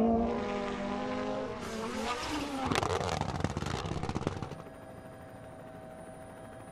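WRC rally car engine note fading as the car drives away on a gravel stage, then a burst of rapid crackling pops with the engine note sliding, about two to four seconds in. It cuts off suddenly to a quieter steady hum.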